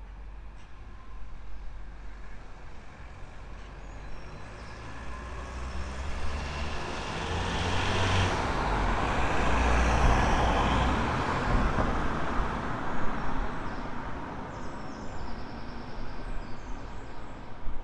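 A road vehicle passing by: engine rumble and tyre noise grow louder as it approaches, peak about eight to ten seconds in, then fade as it moves away.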